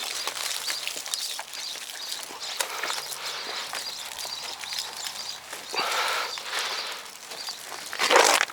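Car wash mop being scrubbed over a car's soapy bodywork: irregular rubbing and swishing with small clicks, and a louder swipe near the end.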